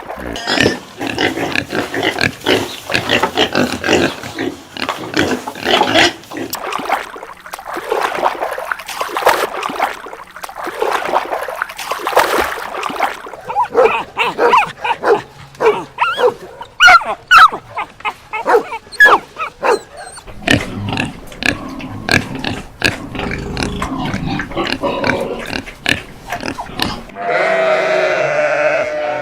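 Pigs grunting and squealing: a long run of many short, irregular calls. Near the end a steadier, pitched call begins, like a sheep or goat bleating.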